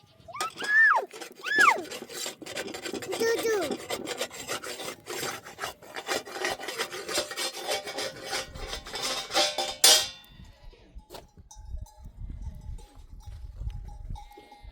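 A shepherd's high, rising-and-falling calls to the flock, then a dense jangle of many sheep bells clinking and clanking as the flock moves, cutting off abruptly about ten seconds in. A low rumble follows.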